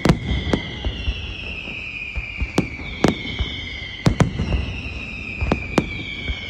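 Fireworks display: several whistling shells keep up overlapping whistles that slowly fall in pitch, cut through by sharp bangs at irregular intervals, about one a second.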